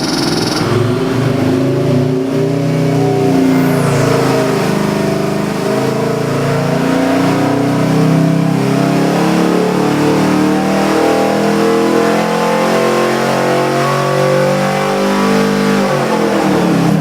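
383 cubic-inch small-block Chevy stroker V8 pulling at wide-open throttle on an engine dyno, its pitch climbing slowly and steadily as the revs rise, then dropping quickly near the end as the throttle is closed. This is a full power pull, the run that gave about 477 horsepower and 492 lb-ft of torque.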